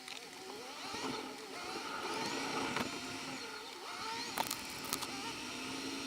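A car running with odd wavering whining tones that bend up and down in pitch, and a few sharp clicks.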